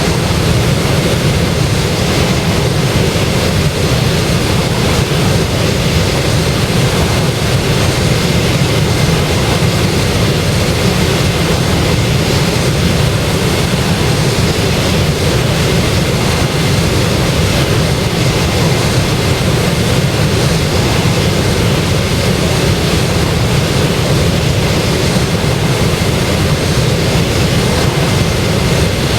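Boeing 737-800's jet engines running with a steady, unbroken rushing noise that is heaviest in the low end.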